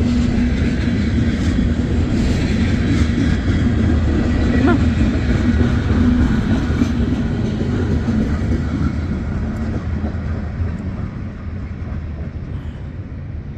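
Freight train rolling, heard from aboard a car: a steady rumble with a low drone, easing off slightly toward the end.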